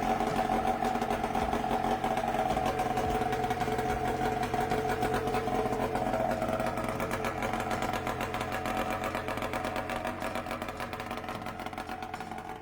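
The Rotax 670 two-stroke engine of a 1995 Red Devil formula race car, fitted with an expansion-chamber exhaust, running steadily at an even pitch. It slowly fades over the last few seconds.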